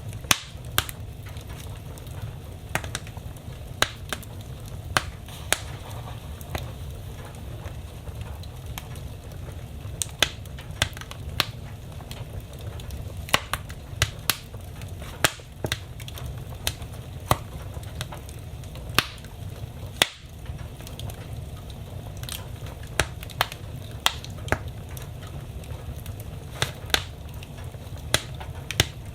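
Wood fire in a fireplace crackling: sharp, irregular pops, one or two a second, over a low steady rumble.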